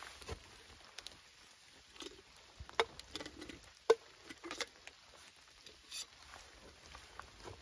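Rain pattering, with scattered sharp taps and knocks, the loudest about four seconds in.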